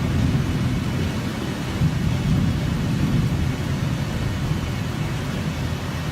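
Storm wind buffeting the microphone: a steady low rumble with a lighter hiss on top.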